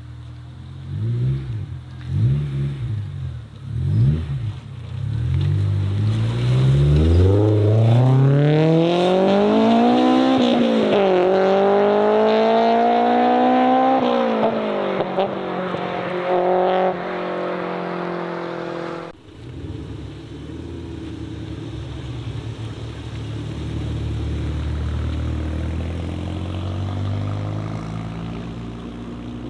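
A modified car's engine is blipped in a few short revs, then accelerates hard, its pitch rising through one gear, dropping at a quick upshift and rising again before easing off. The sound then cuts off abruptly to the steady, lower rumble of a car engine that swells slightly near the end.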